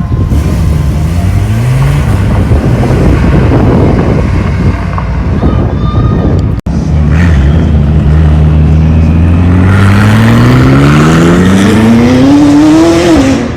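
Car engine accelerating hard, its pitch climbing steadily for several seconds and then dropping near the end, with a brief dropout about halfway through.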